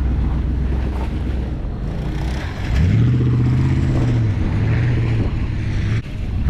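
A motor vehicle engine running at a low steady hum, then revving up about three seconds in and holding at the higher speed, easing off slightly partway through before a brief drop near the end.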